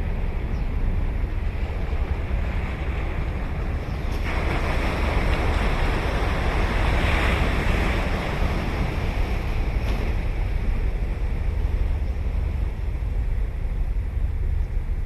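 Ocean surf on a beach: a steady low rumble, with one wave's wash swelling into a loud hiss about four seconds in, peaking, then fading away a few seconds later.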